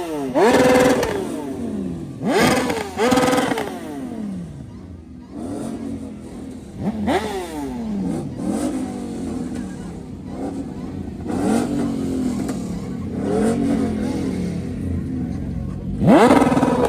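A car engine being revved in repeated blips: each rev climbs quickly in pitch and then falls back to idle, about eight times at irregular intervals, with the loudest blips near the start and at the very end.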